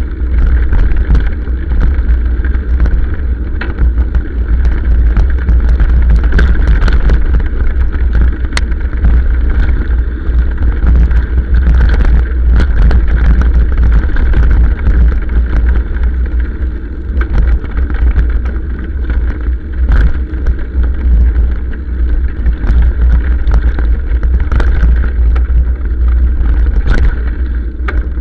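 Motorcycle riding downhill on a rough hill track, with a heavy low rumble throughout and frequent short knocks and rattles.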